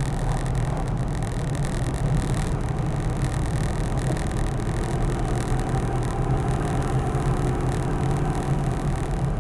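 Steady in-cabin drone of a 6.5 L turbo diesel Land Cruiser cruising down the road, engine and road noise blended, with a faint whine coming in about halfway through.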